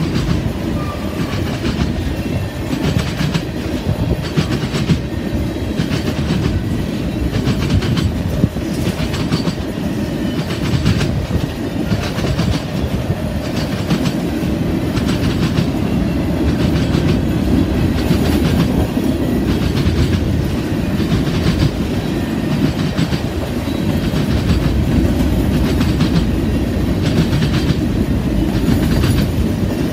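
Covered hopper cars of a freight train rolling past close by: a steady low rumble of steel wheels on rail, broken by repeated clacks as the wheelsets pass.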